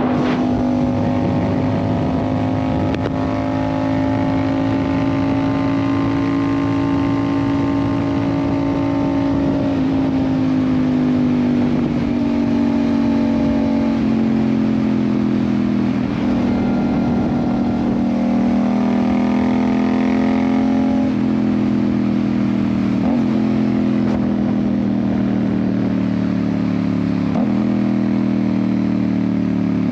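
Yamaha MT-07's parallel-twin engine running through an aftermarket Ixil exhaust while riding, holding a steady pitch for about nine seconds and then easing gradually lower in pitch as engine speed falls off.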